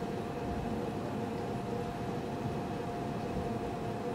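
Steady background hum and hiss of a room, with a faint unchanging tone running through it.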